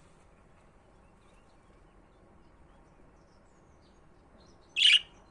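A budgerigar gives one short, loud chirp near the end, after several seconds of only faint background.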